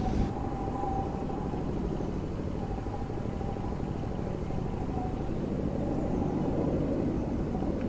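Mini Crosser mobility scooter on the move: a faint steady whine from its electric drive motor over a steady low rumble.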